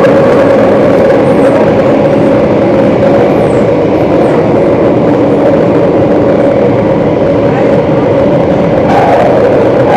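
Singapore MRT train running at steady speed, heard from on board: a loud, even rumble with a steady whine running through it.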